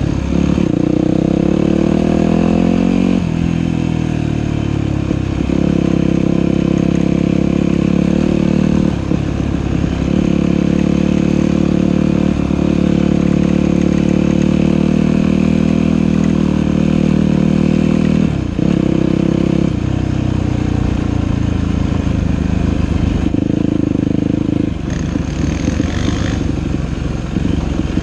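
Dirt bike engine running under throttle on a trail ride, its pitch rising and falling, with several brief dips where the throttle is eased off.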